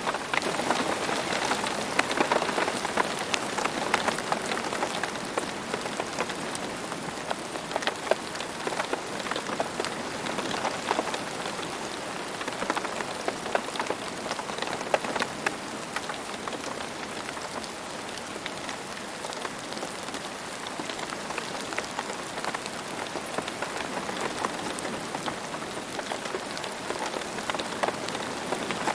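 Steady rain falling and pattering on a surface, an even hiss dotted with many individual drop ticks, with no thunder.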